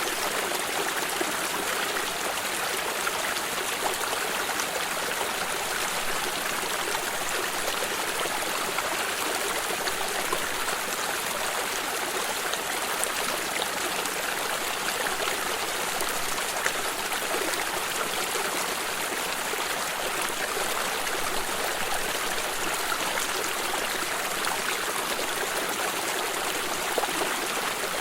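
A shallow stream running over stones: steady rushing water with many small splashes and trickles, no change in level throughout.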